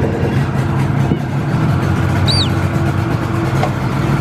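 An engine running steadily at a constant low pitch, with one short bird chirp about two seconds in.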